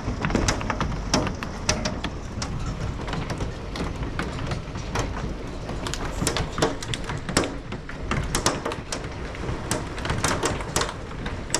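Large hailstones striking window glass: irregular sharp cracks and knocks, several a second, over a steady hiss of the storm.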